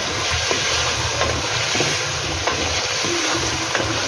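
Potato chunks and spices frying with a steady sizzle in hot ghee in a metal pot, stirred with a wooden spatula that scrapes and taps the pot now and then. This is the bhuna stage, the masala being fried together with the potatoes.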